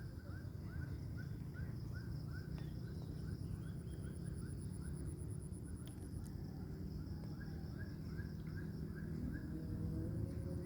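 Outdoor nature ambience: an animal repeats a short rising call about three times a second, fading out around the middle and starting again later. Under it runs a steady high pulsing hum and a low rumble.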